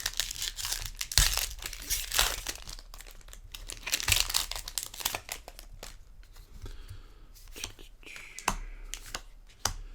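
Foil wrapper of a Magic: The Gathering booster pack being torn open and crinkled: a dense run of crackles and rips, busiest in the first half.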